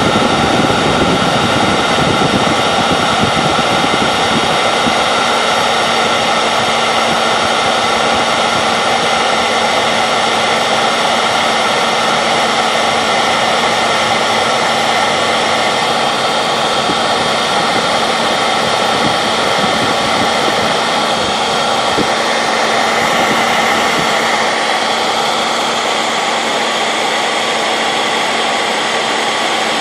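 Handheld hair dryer running steadily on full heat and full fan: a constant rush of air with a faint motor whine. Its tone shifts slightly about 23 seconds in.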